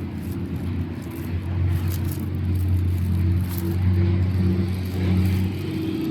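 Diesel engine of a Beiben 2642 heavy log truck running steadily, a low drone.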